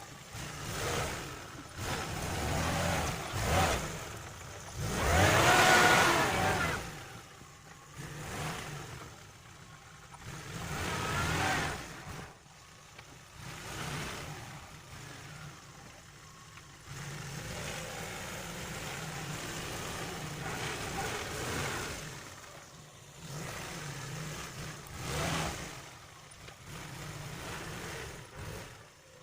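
Lada Niva engine revving up and easing off in turn as it drives off-road, with the loudest surge about five seconds in and a steadier stretch near the middle.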